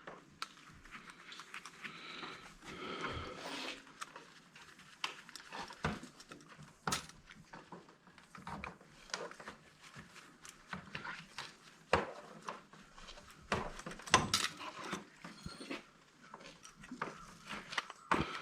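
Irregular clicks, taps and knocks of hand tools and small metal parts being handled while an old electric angle grinder is taken apart, with a short squeaky, pitched sound about two seconds in.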